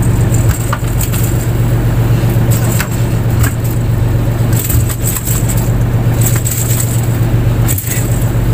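Fishing boat's engine running steadily at a constant speed, a loud low hum, with scattered short knocks and rattles over it.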